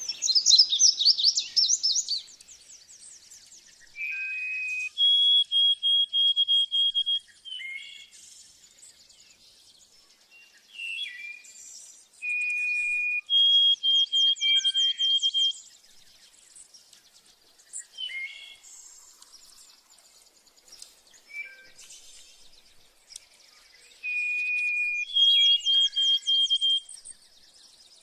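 Songbird singing a repeated phrase about every ten seconds. Each phrase is a steady whistled note followed by a higher, rapidly repeated note with a fast trill, with softer chirps between phrases.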